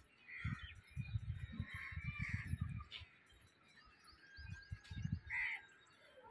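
Birds chirping and calling in short bursts, over patches of irregular low rumbling.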